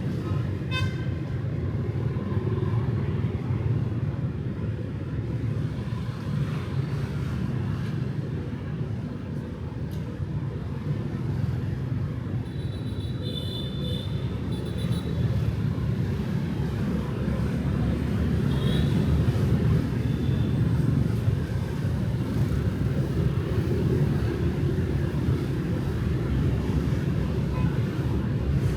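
Street traffic of motorbikes and cars passing in a steady rumble, with a few short horn toots about halfway through and again briefly later.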